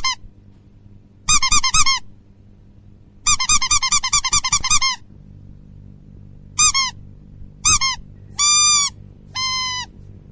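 Bursts of high-pitched warbling squeaks, each made of quick rising-and-falling chirps: a long run in the middle, two short bursts, then two held, steady squeaks near the end, over a faint low hum.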